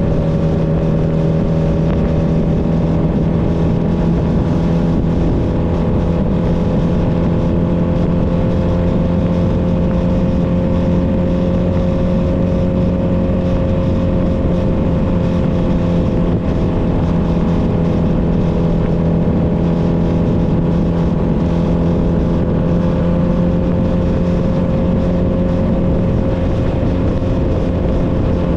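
Honda Nighthawk 250's air-cooled parallel-twin engine running under way at a steady cruising speed. Its pitch drifts up slightly through the middle and eases back, over a steady rush of road and wind noise.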